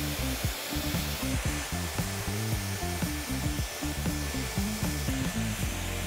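Handheld hair dryer blowing steadily, its light ring showing blue, under background music with a low, stepping bass line.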